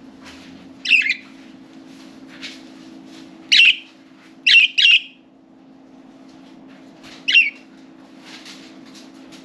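Budgerigars calling: five loud, short chirps, one about a second in, one near three and a half seconds, a quick pair near five seconds and one past seven seconds, with softer chirping in between.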